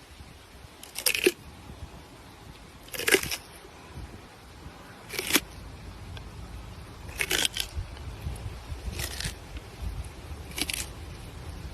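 Short crunching sounds, one about every two seconds, six in all, over a steady low rumble.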